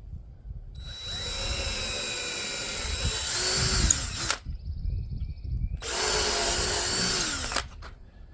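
Power drill running in two bursts, about three and a half seconds and then about two seconds, its pitch dipping near the end of each run. Wind rumbles on the microphone throughout.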